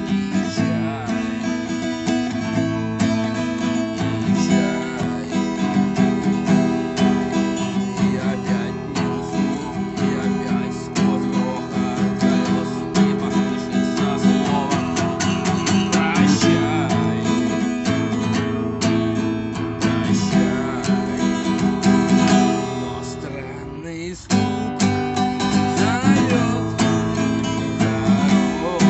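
Acoustic guitar being strummed, a steady rhythmic music part that drops away briefly about three-quarters of the way through before coming back.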